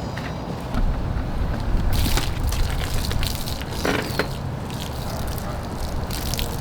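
Water spraying onto a car during a wash, hitting in uneven bursts of hiss from about two seconds in over a steady low rumble.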